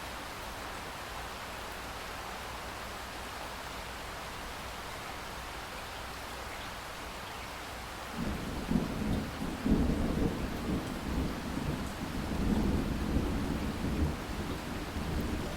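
Steady rain hiss, then about eight seconds in a long roll of thunder breaks in and rumbles on under the rain, swelling and fading in waves.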